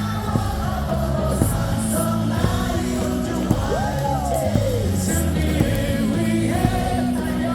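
Baseball stadium crowd singing a team cheer song over loud amplified music with a steady beat about once a second, with some yelling.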